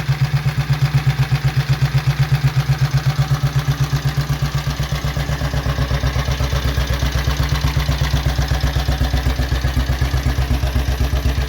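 Vintage 1937 500 Sport motorcycle engine idling steadily, with even exhaust pulses at about seven a second.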